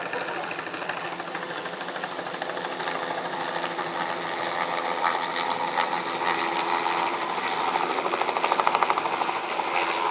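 Air-Evac medical helicopter's rotor chopping with a fast, steady beat, growing louder as the helicopter comes in toward the field.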